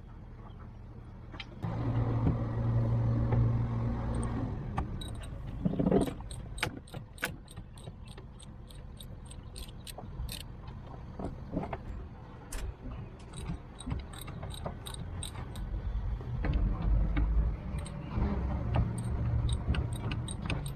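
Metal clinks and taps of hand tools and fittings as a hydraulic steering cylinder is being unbolted, many short clicks in the middle stretch, over a low rumble that swells near the start and again near the end.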